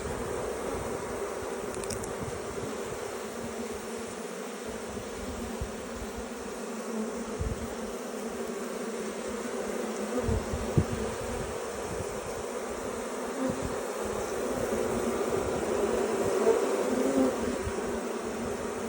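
Honeybees buzzing in a dense, steady drone around a wild hive, with a few soft low knocks about halfway through.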